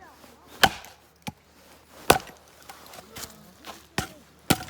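Axe blows striking and splitting firewood: several sharp, irregularly spaced chops, the loudest four spread over the few seconds, with lighter knocks of wood between.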